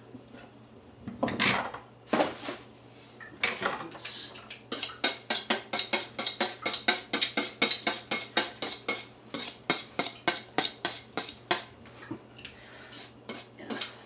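Kitchen knife chopping carrots on a cutting board. After a few scattered knocks and scrapes, it settles into a steady run of about four chops a second, pauses briefly near the end, then starts again.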